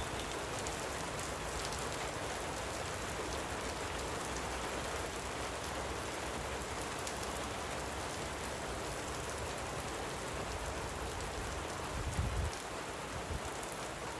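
Light rain falling, a steady even hiss with scattered faint drop ticks, and a brief low rumble about twelve seconds in.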